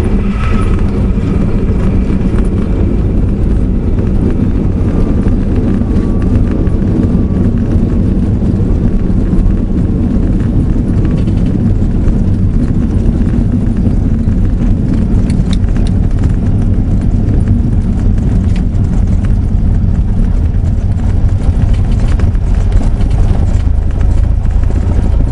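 Cessna 172SP's four-cylinder Lycoming engine and propeller running steadily, heard inside the cabin as a loud, even drone with most of its weight low down.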